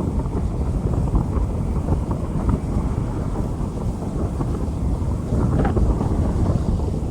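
Rain falling on a street, with wind buffeting the microphone into a steady low rumble.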